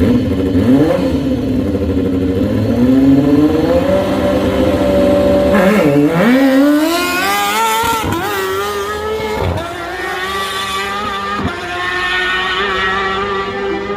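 Race car engine accelerating hard: its pitch climbs for several seconds, drops sharply about six seconds in and climbs again, then holds with a few brief breaks.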